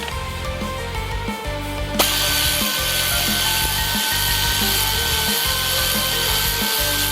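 Background music with a steady beat. About two seconds in, a power tool starts with a loud steady hiss and a high whine, running on for about five seconds.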